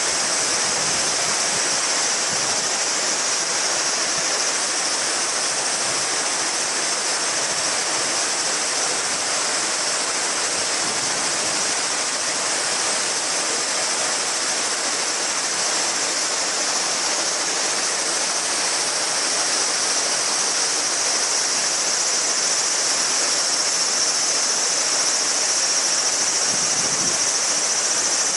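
A river babbling with a steady rush of water, and a chorus of cicadas singing as a high, continuous buzz over it that grows a little louder near the end.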